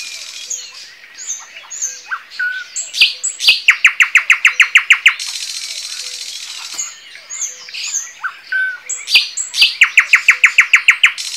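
Songbirds singing. One bird twice gives a loud, rapid run of identical notes, about ten a second, each run followed by a higher buzzy trill. Other birds chirp in between.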